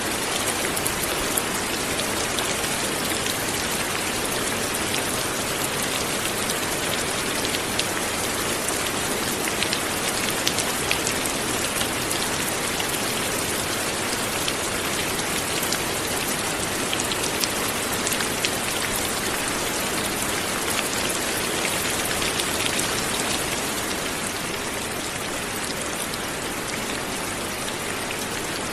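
Steady light rain falling, a dense even hiss with the ticks of individual drops hitting a surface; it eases slightly near the end.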